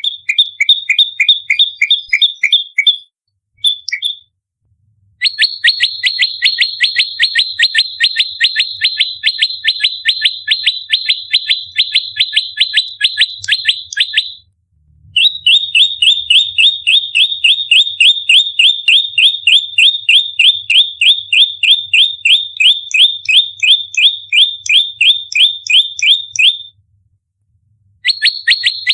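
Prenjak lumut (a prinia) in fighting song, firing rapid runs of sharp, repeated chip notes at about five a second. The long bursts are broken by brief pauses, the longest near the start and near the end.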